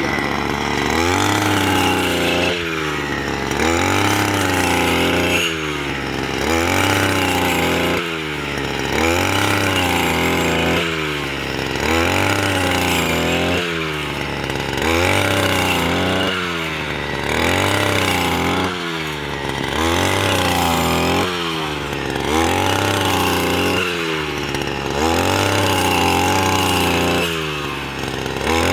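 Engine of a wheat-cutting machine running hard, its pitch swelling and dropping in a regular cycle about every second and a half.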